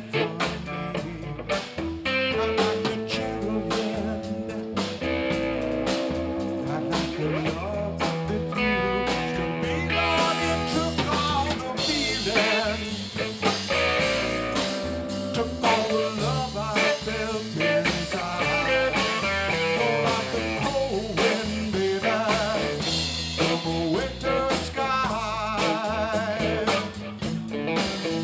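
Blues-rock band playing live: guitar lines with wavering, bent notes over bass and a steady drum-kit beat.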